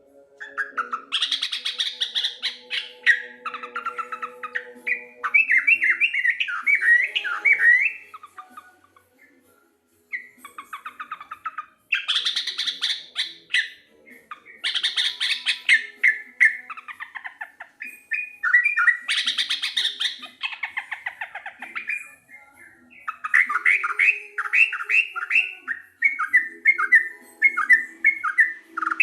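Yellow-vented bulbul (trucuk) singing vigorously: repeated bouts of rapid, bubbly chattering notes, each a few seconds long, with a short pause about nine seconds in.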